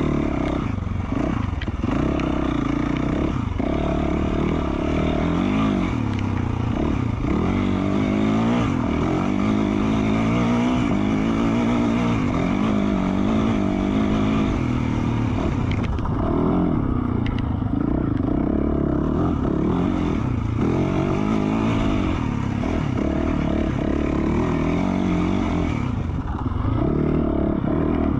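A 2020 Yamaha YZ450F's single-cylinder four-stroke engine, breathing through an FMF Q4 slip-on exhaust, under way on the dirt bike and constantly revving up and down with throttle and gear changes. It eases off briefly a couple of times, about sixteen and twenty-six seconds in.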